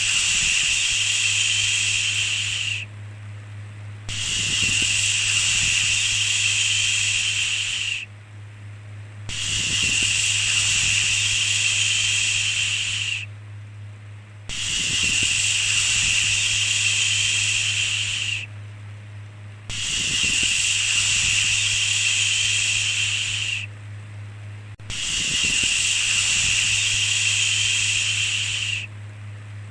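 A long 'shhh' shushing sound repeating over and over: each hiss lasts about four seconds and is followed by a dip of about a second, six times in a row. A steady low hum runs underneath.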